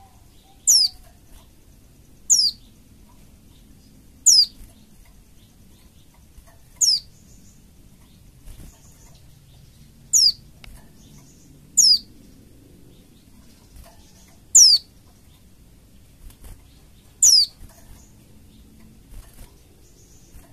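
White-eye (pleci) giving short, thin, very high calls that each sweep down in pitch, eight of them at irregular gaps of about two seconds. It is a pleci lure call, played to provoke caged white-eyes into singing.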